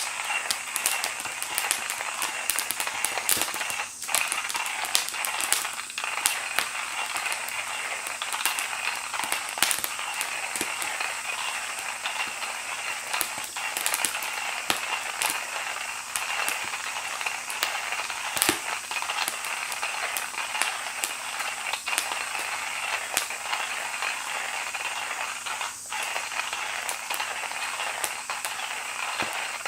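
Small wood fire crackling in a Firebox camp stove: a steady hiss of burning with many sharp, irregular pops and snaps.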